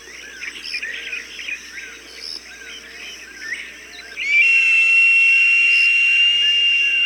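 Recorded hawk calls. Short chirping calls repeat about twice a second, then about four seconds in a loud, long, shrill scream starts and holds a steady pitch for about three seconds.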